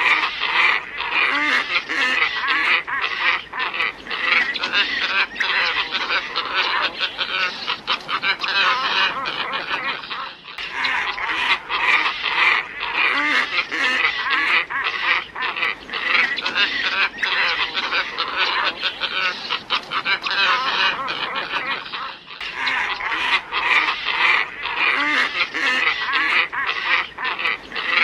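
A flock of glossy ibises calling, many calls overlapping without a pause: a recording played as a bird-luring call. It drops out for a moment about 10 seconds in and again about 22 seconds in, each time starting over as a loop.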